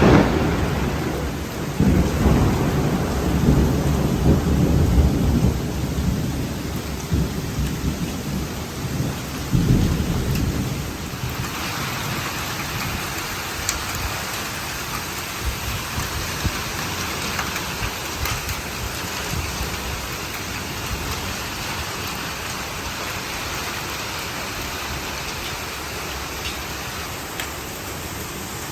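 Thunder rolling in a Florida thunderstorm, with a low rumble that swells again about ten seconds in and then dies away. Steady rain falls throughout and carries on alone after the thunder fades.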